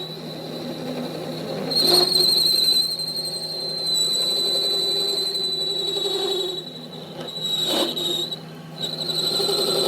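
A steady high-pitched mechanical squeal, like metal being worked on a machine, that drops out briefly near the end, with a couple of short knocks.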